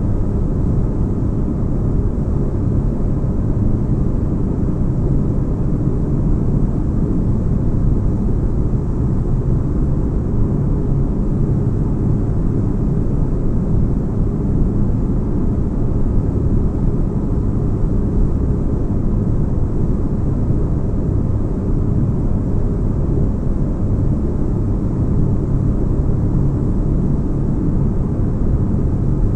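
Sci-fi spaceship cabin ambience: a steady deep rumble with a soft hiss above it, unchanging throughout.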